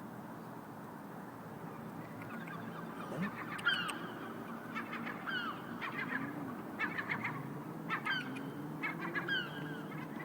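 Gull chick calling repeatedly with short, high, falling peeps, starting about three seconds in, over a low steady background hum.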